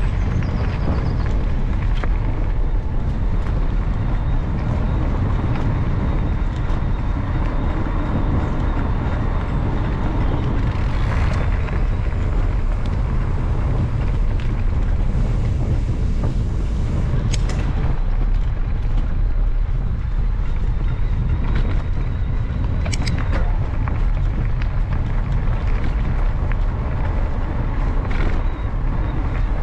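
Steady wind rumble on the camera microphone over the rolling noise of a mountain bike on a canal towpath, with a few sharp clicks and knocks from the bike.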